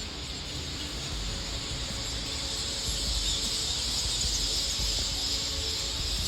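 A dense, steady high-pitched chirring chorus of many small animals, over a low rumble.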